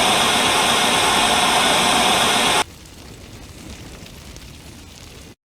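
Loud burst of static hiss that cuts off suddenly about two and a half seconds in, leaving a much fainter hiss that stops dead near the end.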